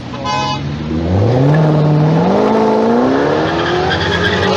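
Supercar engine accelerating hard, its note climbing steadily in pitch as the revs build and getting louder about a second in.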